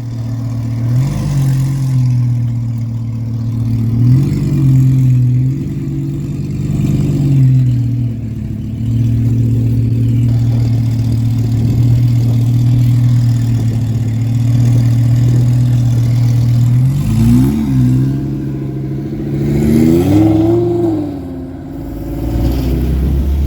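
Twin-turbocharged 5.2-litre V10 of a Lamborghini Huracan EVO idling steadily, with several short throttle blips that rise and fall quickly. The largest rev comes near the end.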